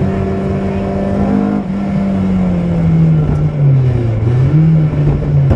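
BMW M3 rally car's engine heard from inside the cabin, held at steady high revs. About a second and a half in it dips briefly, then the revs fall away over the next two seconds and settle at a lower, steady pitch.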